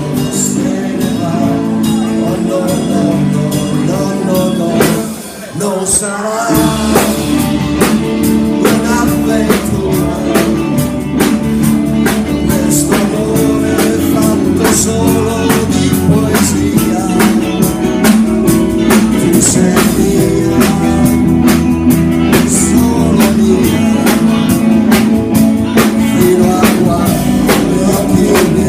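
Live band music with guitar and drums. About five seconds in the sound briefly drops, then the full band comes back in with bass and a steady drum beat.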